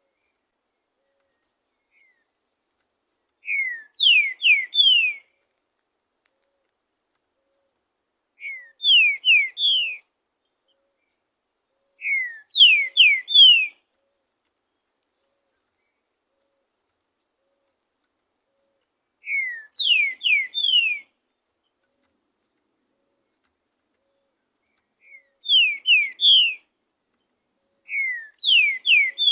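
Green-winged saltator (trinca-ferro) singing: six short phrases, each of three or four quick, clear whistles that fall in pitch, with pauses of a few seconds between phrases.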